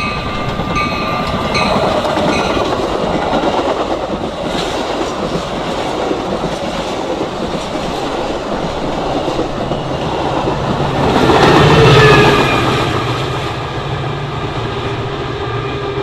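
Metra express commuter train passing at speed, its wheels clicking over the rail joints. The sound swells to its loudest about three-quarters of the way through, then eases back to a steady rumble.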